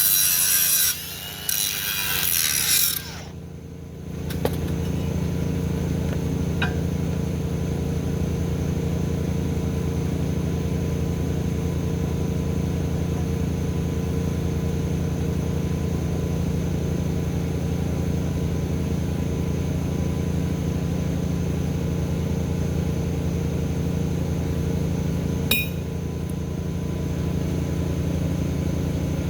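A power tool cutting for about three seconds, then stopping. An engine then runs steadily at one speed, with a sharp click about two-thirds of the way in.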